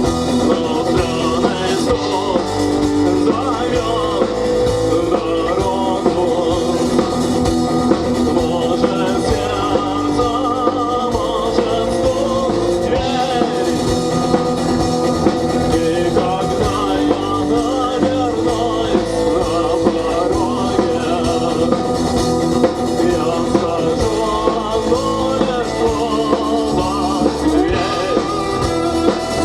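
Rock band playing a song live, with a singer over a drum kit and guitars.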